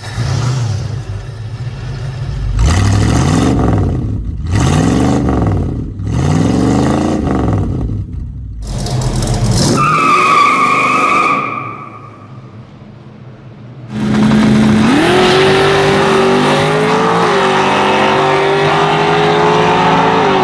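A V8 car engine revved in three quick rises and falls, then a brief high squeal. After a short lull, the engine runs hard at high revs, its pitch climbing and then holding.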